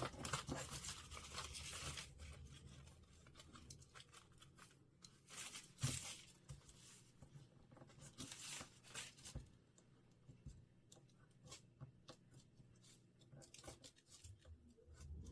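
Paper being cut and torn away into small triangles: faint, intermittent rasps and crinkles with a few sharp clicks, busiest in the first two seconds.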